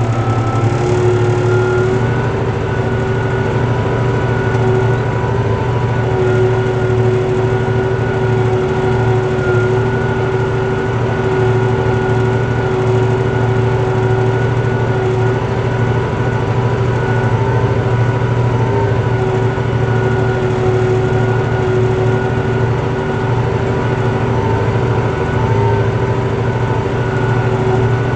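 Tractor diesel engine running steadily under load, pulling a four-bottom plough. Its pitch rises over the first couple of seconds, then holds even.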